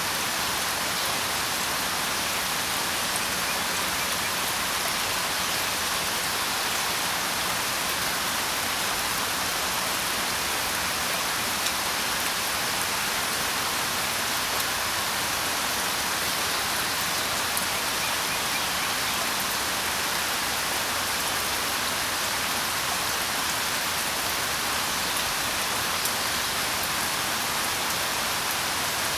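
Steady rain falling: an even, unbroken hiss with a few faint scattered drop ticks.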